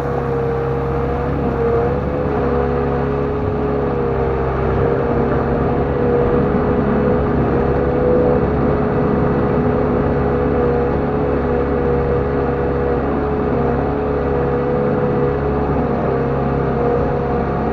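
LONKING CDM307 skid steer loader's engine running steadily at working revs, with a steady whine above the engine note that wavers slightly in pitch.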